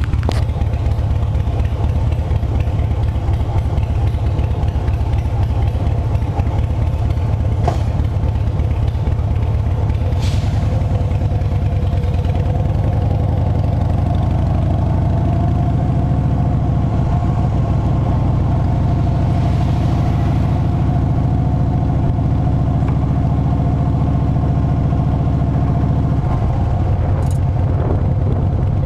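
Harley-Davidson Softail Standard's V-twin engine running steadily with its rapid low pulsing exhaust note, the pitch shifting a little about halfway through and again near the end.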